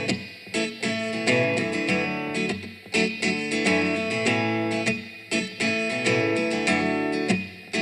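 Instrumental song intro: guitar playing chords, its notes ringing on between strokes.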